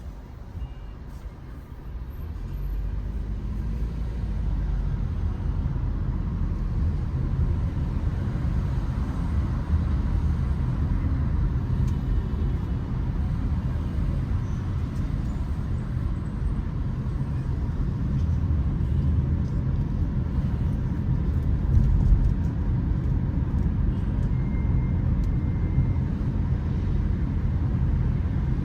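Low, steady motor-vehicle and road-traffic rumble. It builds over the first few seconds and then holds.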